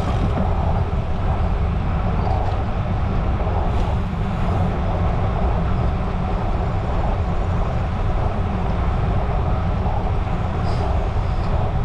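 Steady wind noise buffeting the microphone of a moving bicycle, a continuous low rumble with a lighter rush of air above it.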